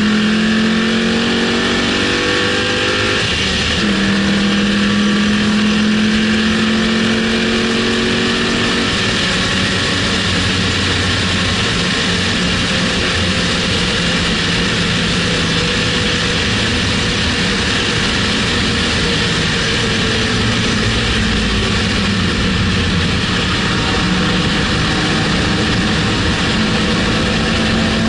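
Mustang GT V8 accelerating hard on track, its pitch climbing, dropping once on an upshift about three seconds in, then climbing again. After about nine seconds the engine fades under a steady rush of wind and road noise on the bumper-mounted camera, and near the end it pulls again with rising pitch.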